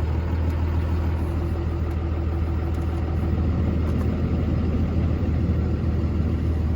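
Dodge Ram's Cummins inline-six turbodiesel idling steadily just after a cold start, running smoothly.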